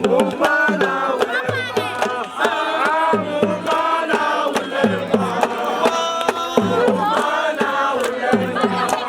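Drumming with voices chanting or singing over it: repeated deep drum strokes that drop in pitch, mixed with many sharp slaps and clicks.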